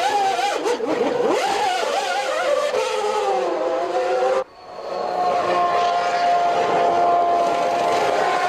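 Formula One race car engine at high revs, its pitch climbing and dropping through gear changes, then after an abrupt break about halfway through, a steady high-pitched note held at full throttle.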